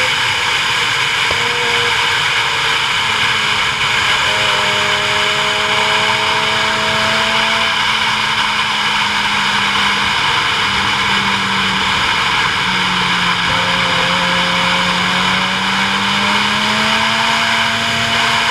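Vehicle driving along a road: steady wind and road rush with an engine hum that slowly rises and falls in pitch.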